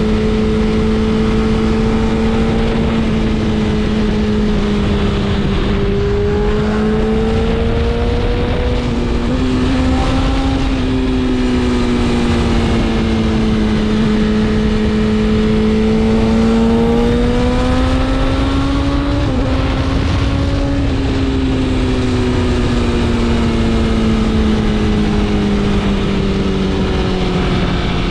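BMW S1000RR's inline-four engine at a steady road cruise, its pitch rising and falling gently as the throttle is opened and eased. Heavy wind and road noise run underneath.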